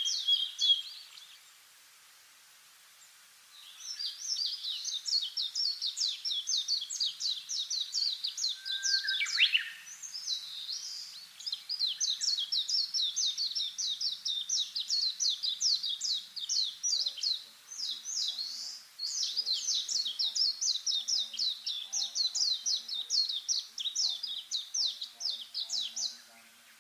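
Long runs of short, sharp, high chirps repeated about four times a second, with brief pauses between runs: a small animal calling, most likely a bird.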